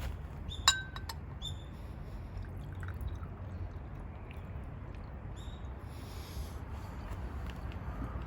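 A wine glass clinks once with a brief ring about a second in, followed by a few light taps of glass being handled, over a steady low background rumble.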